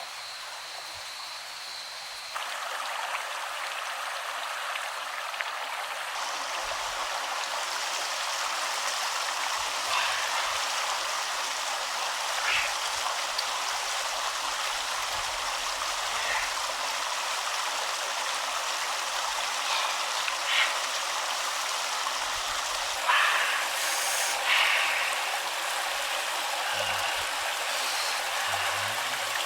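Steady rushing of flowing stream water, growing a little louder about two seconds in, with a few brief splashes or clicks standing out now and then.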